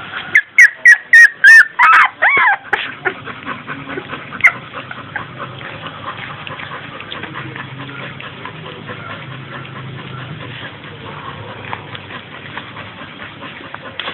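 Puppies crying in a quick run of about eight loud, high yelps and whimpers in the first three seconds, the last few falling in pitch. After that only faint clicks and a low hum remain.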